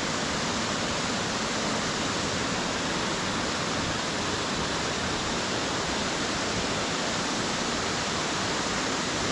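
Waterfall running fast and powerful into its splash pool: a steady, even rush of falling water.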